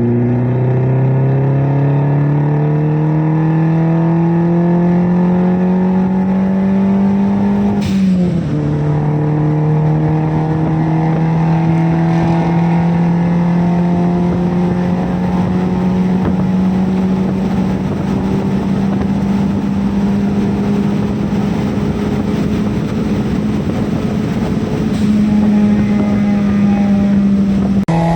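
Daihatsu Copen's small turbocharged kei-car engine pulling under hard acceleration, its note rising steadily. About eight seconds in it drops in pitch at an upshift, then climbs again more slowly in the higher gear.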